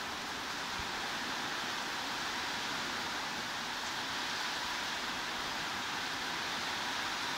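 Steady heavy rain: an even hiss with no single drops standing out.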